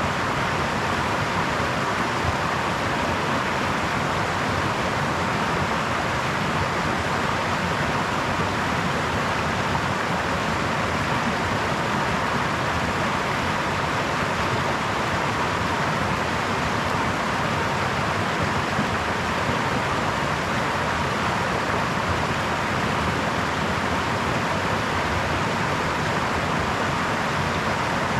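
A brook running with a steady, even rush of water that does not change.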